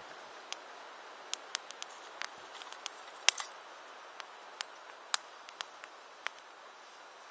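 Wood campfire crackling: irregular sharp pops and snaps over a steady soft hiss, the loudest pop a little past three seconds in.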